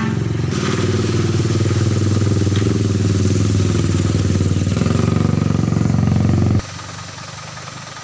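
A motor vehicle engine running close by, a steady low drone that stops suddenly about six and a half seconds in.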